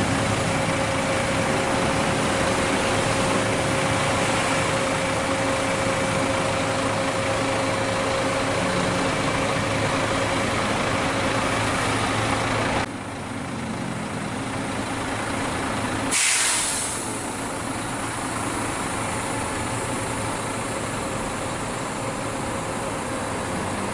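Scania K410 double-decker bus idling with a steady engine hum, which drops abruptly a little past halfway. A few seconds later comes a short, loud hiss of compressed air, the kind air brakes make when they release.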